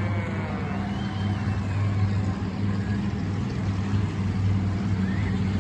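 Monster truck engine running steadily at low revs, a deep even drone with no revving.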